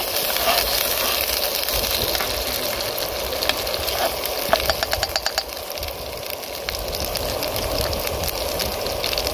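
Chopped onions with garlic and ginger paste sizzling steadily in butter in a frying pan while a spatula stirs them. A quick run of clicks about five seconds in, the spatula scraping and tapping the pan.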